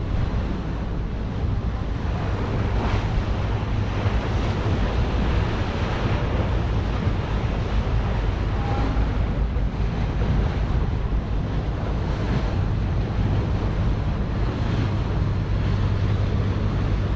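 A boat's engine drones steadily under wind buffeting the microphone and water rushing and splashing against the hull while the boat is under way.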